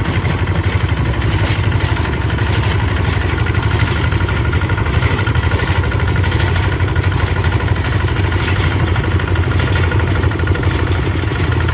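Tractor engine running steadily with a fast, even chugging, loud and unchanging throughout.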